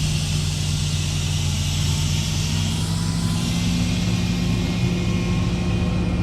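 A truck engine running steadily, with a hiss that comes in suddenly at the start and carries on over it.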